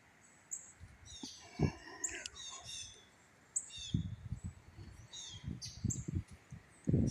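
Songbird chirping: short, high, down-sweeping notes repeated every second or so. From about four seconds in, gusts of wind buffet the microphone.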